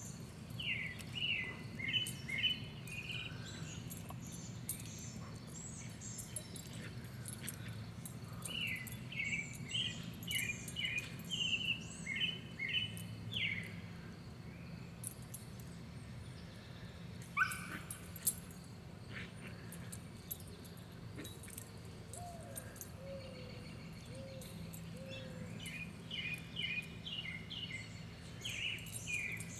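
Songbird singing outdoors in repeated bursts of short, quick chirps, heard three times with pauses between, over a low steady rumble. A single sharp rising call stands out near the middle.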